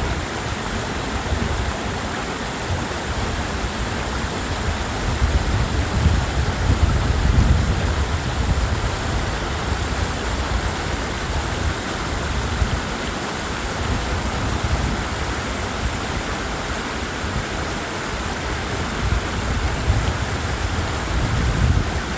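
Mountain valley stream rushing steadily over rocks, with wind gusting against the microphone in low, uneven rumbles.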